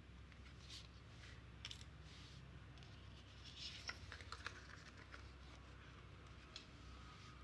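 Quiet handling of an iPhone 13 Pro and its packaging: scattered soft clicks, taps and light rustles, busiest around the middle, with one more small click near the end.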